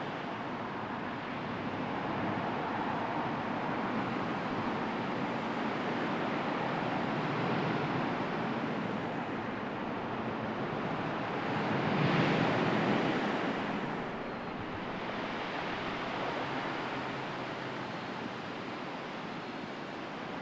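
Sea surf washing continuously onto the shore, with one larger wave swelling and breaking about twelve seconds in.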